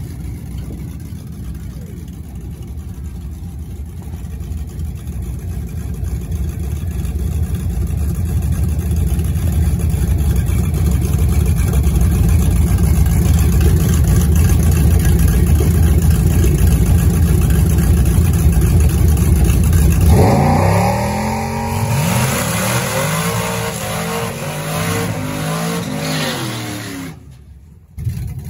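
Drag-racing car engines running loud, the low rumble building over the first ten seconds or so. About twenty seconds in, the engine pitch sweeps up and down repeatedly as they rev and accelerate, then the sound cuts off abruptly near the end.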